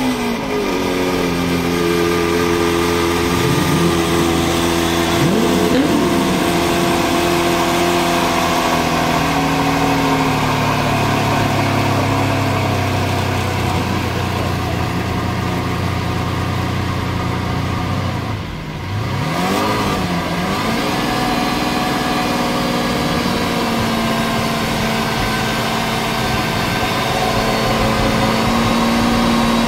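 Sports car engine starting, then idling with a few short blips of revs, one more rev after a brief dip about two-thirds of the way through, before settling into a steady idle.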